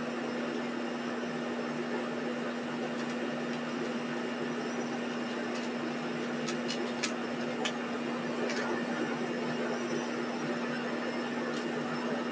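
A steady machine hum with an even hiss, with a few faint ticks between about six and nine seconds in.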